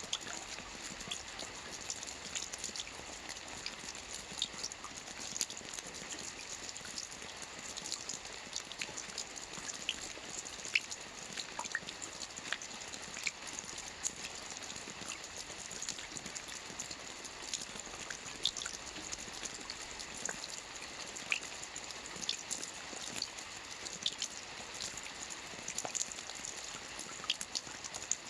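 Rain falling on a lake: a steady hiss of rainfall with many separate drops plinking and dripping.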